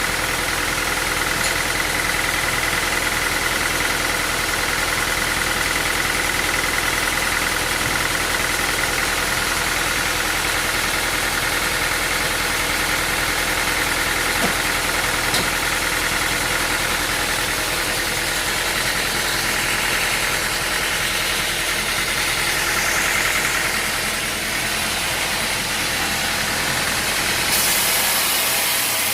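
Sawmill machinery running steadily: an engine-like hum with a high whine above it, and a slight change near the end.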